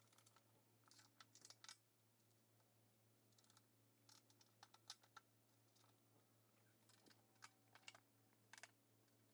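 Faint, irregular small clicks and taps of metal hardware being handled: M8 flange bolts and flange nuts being fitted and threaded on by hand through the bumper and valance.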